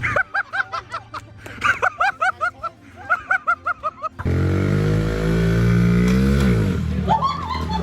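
A person laughing in quick, rhythmic bursts, then an abrupt cut to a vehicle engine running steadily, its pitch sliding down a couple of seconds later. Voices or laughter return near the end.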